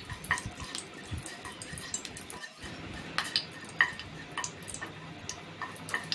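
Bay leaves and whole garam masala spices frying in hot soybean oil in a pan: a steady faint sizzle with irregular sharp pops and crackles.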